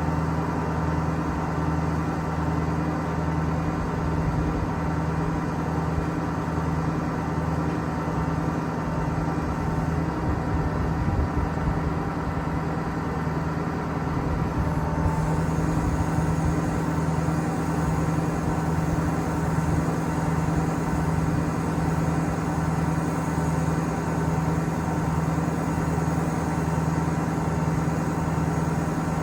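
Ford Power Stroke turbo diesel engine of a Ford F550 bucket truck running steadily at a constant speed.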